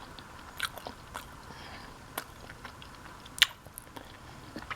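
Close-up mouth sounds of a person chewing a bite of a Subway sandwich, with a handful of sharp, crisp clicks and crunches, the loudest about three and a half seconds in.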